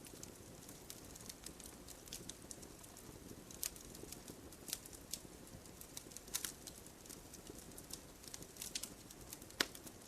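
Wood fire in a fireplace crackling, with irregular sharp pops over a faint steady hiss, the loudest pop near the end.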